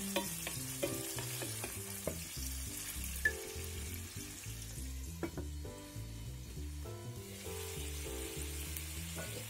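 Minced pork sizzling steadily in hot oil in a frying pan, with a few scrapes of a wooden spatula stirring it in the first two seconds.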